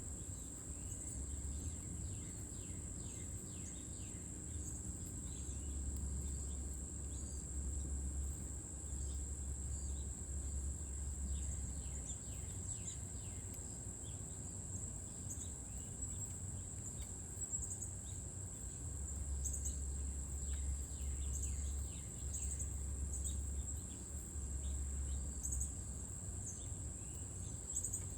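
Insects trill steadily at a high pitch while many short bird chirps come and go over them. A low rumble rises and falls in patches.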